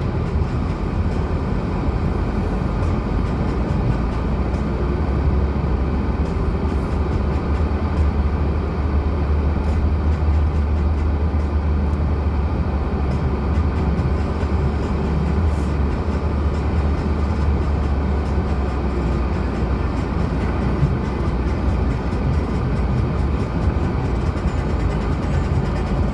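Lada Granta on the move: steady engine and tyre rumble with a heavy low drone, which grows stronger for a stretch in the middle.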